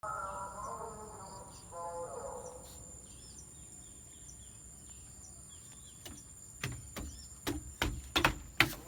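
Rural outdoor ambience: small birds chirping over a steady high insect buzz, with a pitched, wavering call in the first two seconds and several sharp knocks in the last two seconds.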